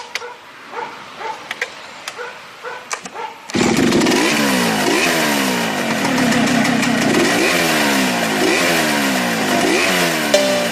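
A chainsaw bursts into loud running about three and a half seconds in and is revved over and over, its pitch rising with each rev about once a second. Before it there are a few short, quieter sounds.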